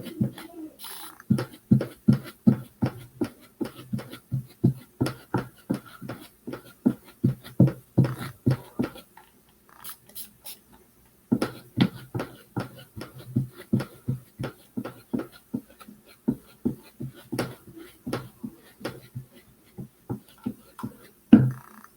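Paint being dabbed onto the wooden birdhouse, a steady run of soft taps about three to four a second, with a short pause about halfway through.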